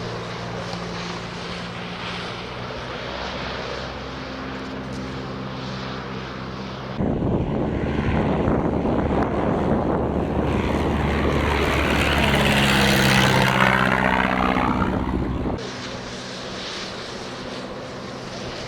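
Light propeller aircraft's piston engine running steadily. About seven seconds in it switches suddenly to a louder, rougher engine sound with a sweeping, phasing whoosh as an aircraft goes past, then drops back to the steadier engine note about eight seconds later.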